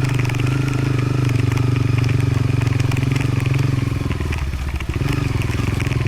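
Motorcycle engine running at steady low revs while riding a dirt road, with rattling and crunching from the bike and gravel. About four seconds in the throttle eases off and the engine note drops for a moment, then picks up again.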